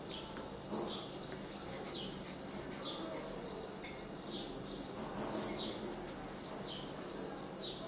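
Small birds chirping: short, high, falling chirps repeating about twice a second over a faint low murmur.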